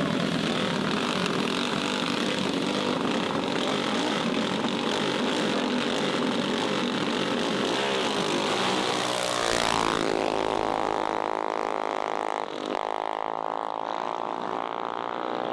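Small mini bike drag racing engines running, then about nine seconds in an engine revs sharply upward as the bikes launch and holds a steady high engine note. Both bikes launch before the starter's signal: a jump start.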